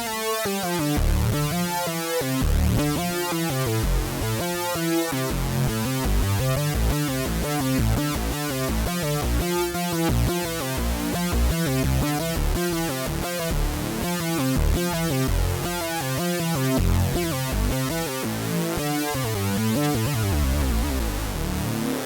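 Korg microKORG software synthesizer (Korg Collection VST) playing a preset: a fast rhythmic pattern of short, quickly changing notes over a bass line.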